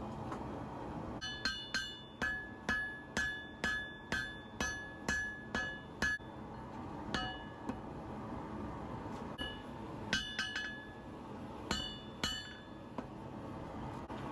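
Forging hammer striking a knife blank on an anvil, each blow ringing with a clear metallic tone: a steady run of about ten blows at roughly two a second, then scattered single strikes and quick flurries of taps.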